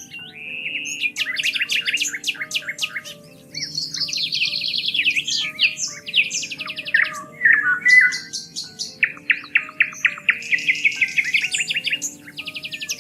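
Songbirds singing in a run of rapid trills and chirping phrases, one after another. Soft background music of slow, held low notes plays underneath.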